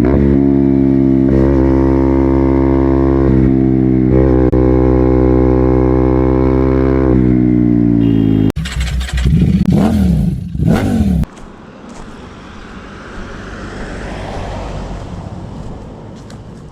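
KTM Duke 200's single-cylinder engine through an Akrapovic full-system exhaust: it runs steadily at constant revs, then the revs drop, and it is blipped twice in quick succession. After that the engine sound drops away to a much quieter, steady rushing noise.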